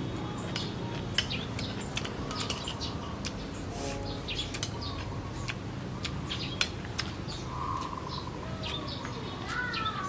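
Small birds chirping and twittering again and again, with two sharp clicks, one about a second in and one past the middle.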